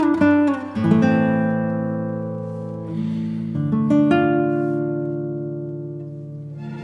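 Background music on acoustic guitar: a few plucked notes, then two chords strummed about 0.8 s and 4 s in and left to ring and fade.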